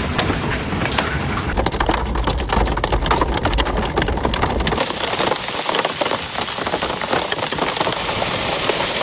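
Heavy storm rain pelting down hard, with many fine clicking impacts and a low rumble underneath. About five seconds in the sound changes abruptly and the rumble drops away.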